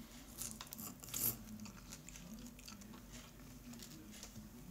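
Close-miked mouth sounds of someone chewing a strawberry: soft wet smacks and clicks, loudest about a second in, then fainter.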